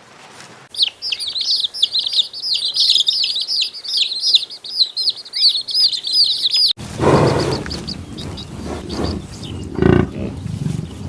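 A bird chirping in a fast, unbroken string of short, high, downward-sweeping chirps for about six seconds, then an abrupt cut to a noisier outdoor recording with a short, lower call near the end.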